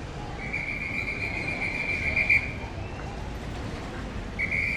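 A whistle blown in long, steady blasts: one of about two seconds, then another starting near the end, over a constant low rumble of street noise.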